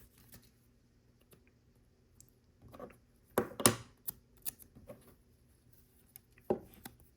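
Light clicks and taps of plastic LEGO pieces being handled and pressed together, a cluster of sharper clicks about three to four seconds in and another about six and a half seconds in.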